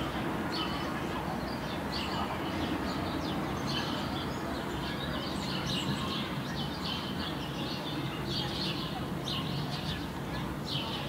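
Small birds chirping and singing in quick, repeated high notes, many calls overlapping, over a steady low background hum.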